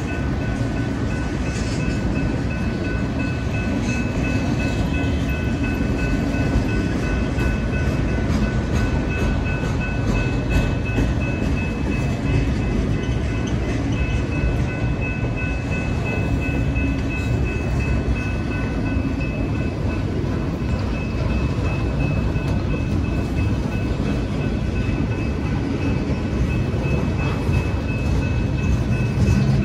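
Mixed freight train of autoracks, boxcars and tank cars rolling past close by: a steady rumble of wheels on the rails, with a thin steady high tone over it.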